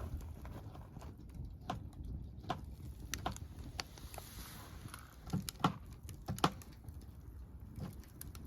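Wood campfire crackling, with irregular sharp pops and snaps over a low steady rumble of the flames; a cluster of louder pops comes about five to six and a half seconds in.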